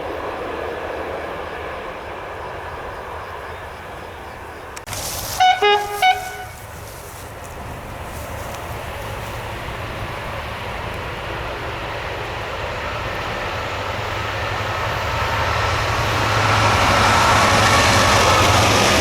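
A train horn sounds three short blasts about five seconds in. Then a train approaches the level crossing, its rumble growing steadily louder toward the end.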